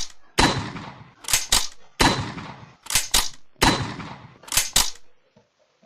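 Gunshot-like cracks from a trap beat playing out after the vocals: a long echoing shot, then two quick sharp shots, repeating about every second and a half. The pattern stops about five seconds in.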